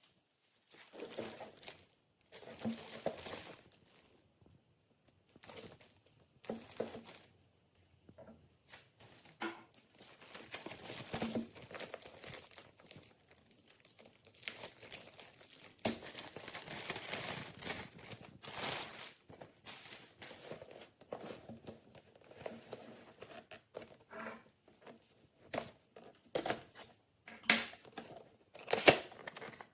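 Packaging crinkling and rustling in irregular bursts, as the gaming headset's box and wrapping are handled.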